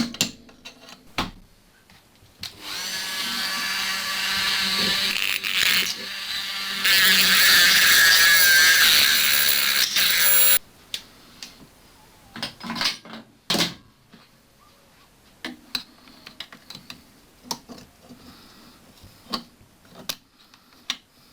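Dremel rotary tool grinding through a seized steel engine mounting bolt, running for about eight seconds, louder in its second half, then cutting off suddenly. A couple of sharp knocks come before it, and scattered clicks and knocks of tools being handled follow.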